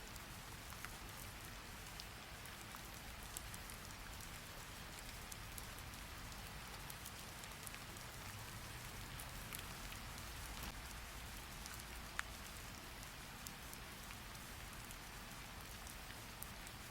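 Steady rain, an even hiss, with scattered sharp ticks at irregular moments, one a little louder about twelve seconds in.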